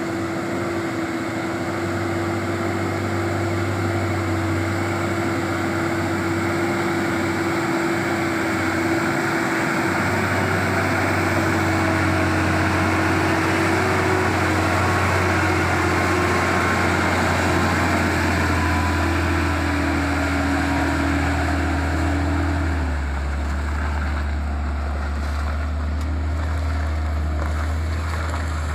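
Hino 500 truck's diesel engine running steadily with a low drone, its pitch dropping slightly about a third of the way in and a higher tone in it falling away near the end.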